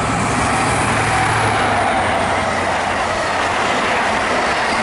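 CrossCountry diesel passenger train passing at speed close by: a steady rush of wheels on the rails with a low hum underneath, growing a little louder as it arrives.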